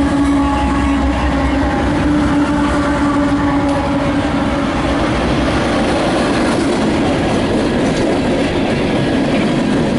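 Freight train rolling past close by, the railcars' wheels clicking over rail joints, with a steady hum that fades away in the first two or three seconds.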